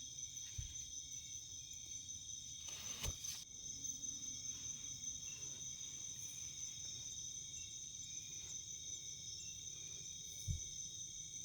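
Forest insects keeping up a steady high-pitched chorus of trills, with a brief rustle about three seconds in and a couple of low thumps, the louder one near the end.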